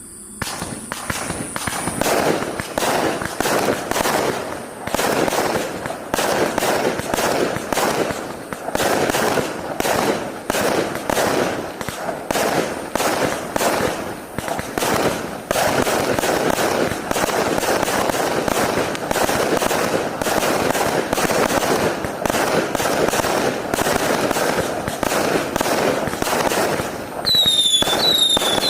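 A 1200-shot, 0.6-inch fireworks cake firing a rapid, unbroken volley of shots and bursts. Near the end, short high whistles, each falling slightly in pitch, join the shots.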